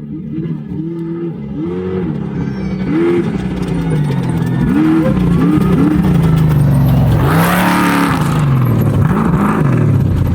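Off-road race vehicle's engine revving hard and easing off again and again as it approaches, growing louder. About seven and a half seconds in, a loud rush of noise as it goes past.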